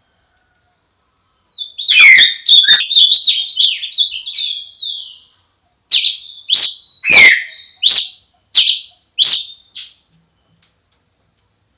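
A songbird singing. A quick run of twittering chirps starts about a second and a half in, followed by a string of separate sharp whistled notes, with short gaps between phrases.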